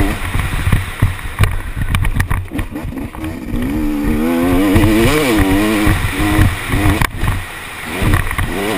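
KTM 250 SX two-stroke motocross engine under hard riding, its pitch rising and falling over and over as the throttle opens and closes, heard from an onboard camera over heavy low rumble. The engine note drops out briefly twice.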